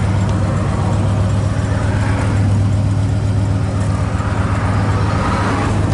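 1966 Chevelle SS396's 396 cubic inch big-block V8 running steadily while the car is driven, a low even drone.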